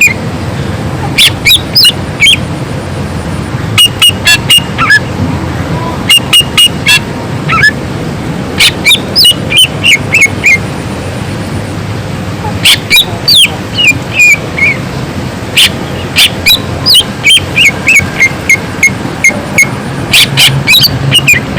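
Caged green leafbird (cucak ijo) singing loud, sharp repeated calls and short whistled notes in quick clusters with short pauses between them, over a steady low hum.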